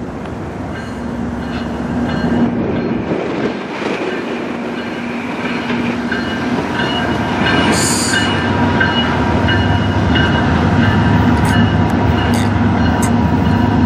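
Approaching freight train led by GE diesel locomotives, its engine and rail rumble growing steadily louder as it nears.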